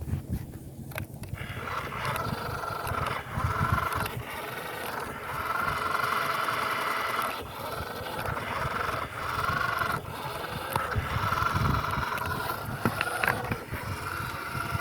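Toy-grade RC car's small electric motor and gearbox whining at full throttle while its wheels spin and scrape in sand, the car stuck and unable to climb out. The whine drops briefly several times and comes back.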